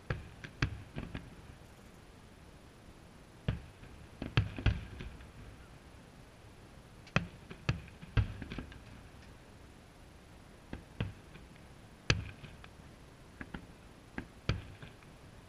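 Aerial firework shells bursting: about a dozen sharp, irregular bangs, some in quick pairs, each fading briefly, the loudest about four, eight and twelve seconds in.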